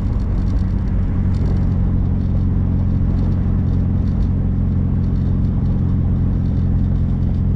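1275cc MG Midget's four-cylinder engine running at a steady speed while driving, with road and wind noise from the open-top car.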